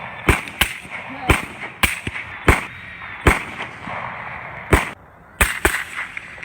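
Rifle shots fired in quick succession during a night hunt: about nine sharp cracks at uneven intervals, several coming in pairs, with a pause between about the fourth and fifth seconds.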